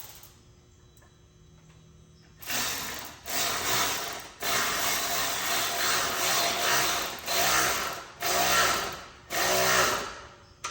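A tool working a car part in a run of about seven or eight rough, grinding strokes that start a couple of seconds in.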